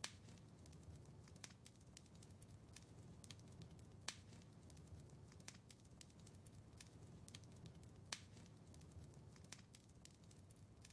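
Wood fire crackling in a fireplace: faint scattered snaps and ticks over a low steady rumble, with sharper pops right at the start, about four seconds in and about eight seconds in.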